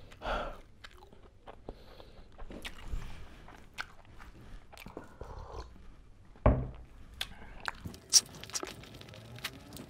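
Close-up chewing and biting of a mouthful of curried eggs and fried chicken legs, with small wet clicks. There is a louder knock about six and a half seconds in and a sharp click about eight seconds in.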